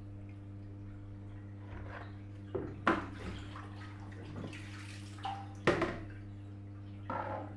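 Water splashing and dripping with a few sharp knocks, over a steady low electrical hum.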